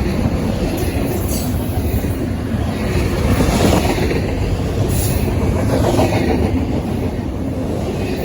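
Train cars rolling past on the track: a loud, steady rumble of wheels on rail, with a few sharp clicks.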